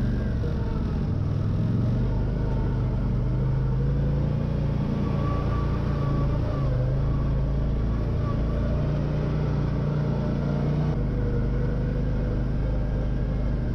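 CFMOTO ZFORCE 800 EX side-by-side's V-twin engine running steadily under way, its pitch drifting slightly up and down.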